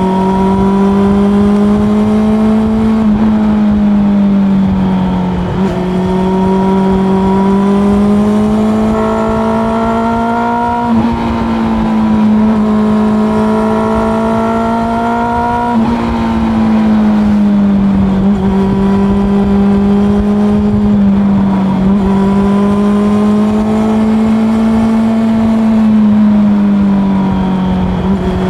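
Honda CB400 Super Four's inline-four engine running under way at moderate revs. Its pitch climbs gently and then dips sharply about seven times, following throttle and gear changes.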